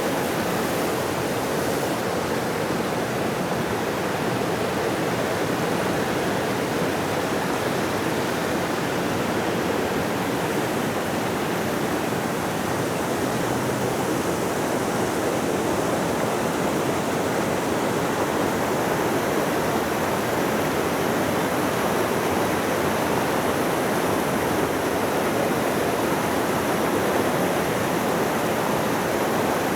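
Forest creek running over rocks: a steady, even rush of flowing water.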